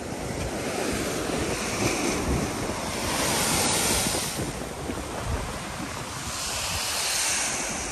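Ocean surf washing in, swelling twice, with wind buffeting the microphone.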